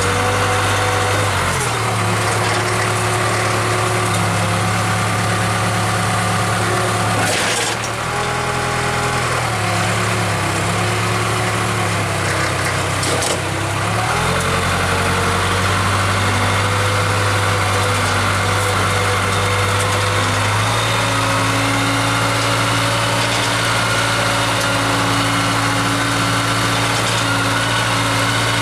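Case 580K loader backhoe's four-cylinder diesel engine running under load as it pushes snow, its speed shifting up and down a few times and settling at a higher pitch for the last third.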